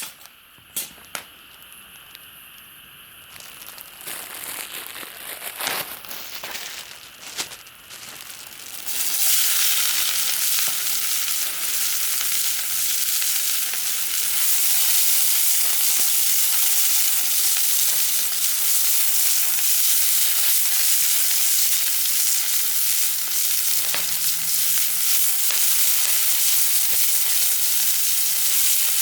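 Food sizzling in a hot frying pan over a campfire. A few clicks and knocks come first, then the sizzle starts suddenly about nine seconds in and stays steady and loud.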